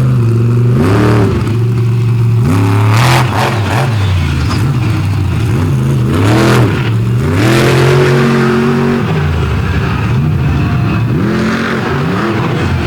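Carolina Crusher monster truck engine revving hard, the pitch climbing and dropping again and again as the throttle is worked, with a few longer holds at high revs.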